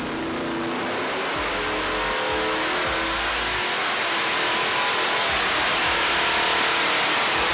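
A ProCharger-supercharged 427 cubic inch LSX V8 making a full-throttle dyno pull, its pitch rising steadily as it revs under load and its loudness climbing over the first several seconds before levelling off.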